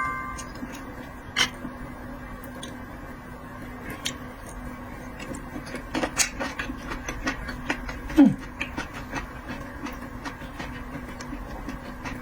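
Close-miked eating: scattered small crunches and clicks of chewing, with one louder short mouth sound, falling in pitch, about eight seconds in, over a faint steady hum.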